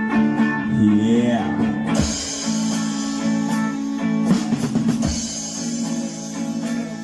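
Live rock band playing an instrumental passage: guitar over a drum kit, with cymbal strokes keeping a steady beat.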